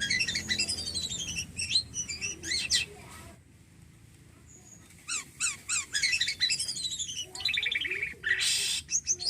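Jalak kapas starling singing in fast phrases of chirps, whistles and trills, with a pause of about two seconds near the middle and a short harsh rasping note near the end.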